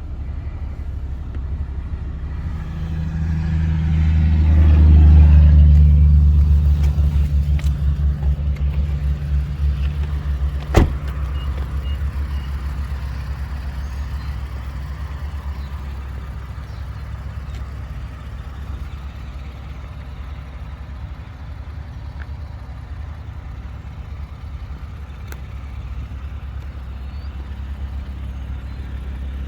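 2017 Infiniti Q50S engine running through a Rev 9 high-flow cat-back exhaust with a steady low drone, swelling louder for a few seconds near the start, then settling back to idle. One sharp click about 11 seconds in.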